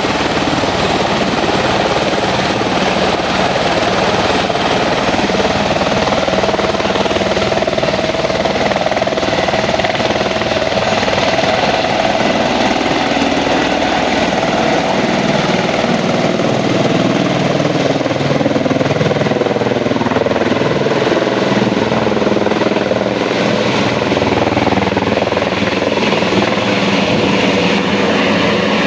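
Helicopter running steadily: continuous rotor and engine noise, with a faint whine through the first half.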